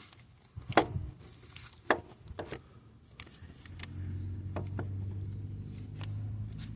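Several sharp clicks and knocks of metal parts and tools being handled during a car starter replacement. A little past halfway a steady low motor hum begins and keeps going.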